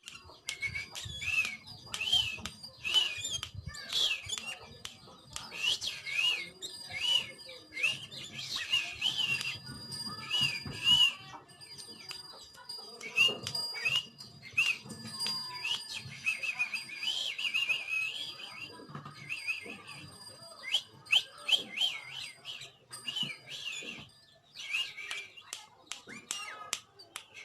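Sooty-headed bulbul whistling a run of short, rising-and-falling notes, about two a second, with sharp clicks and knocks in between.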